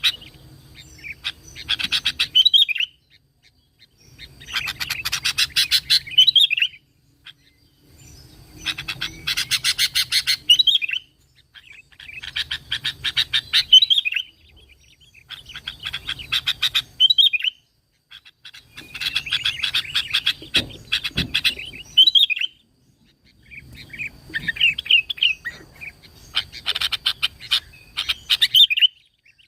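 Sooty-headed bulbul (kutilang) singing in repeated bouts every few seconds. Each bout is a rapid run of chattering notes that ends in a short warbled phrase, with brief pauses between bouts.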